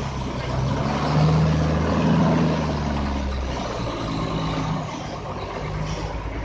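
Truck's diesel engine running at low speed. The engine note swells about a second in, then eases back after about three and a half seconds.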